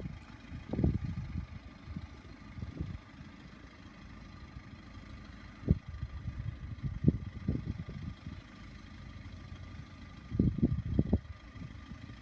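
Wind buffeting the microphone in short, irregular gusts, over a faint steady background hum.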